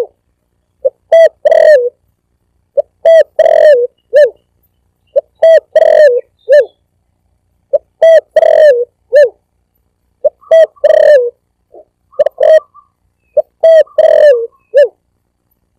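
Spotted dove (tekukur) cooing: a lure-call recording repeats the same phrase every two to three seconds, about six times. Each phrase is a short coo, a longer doubled coo and a clipped final note.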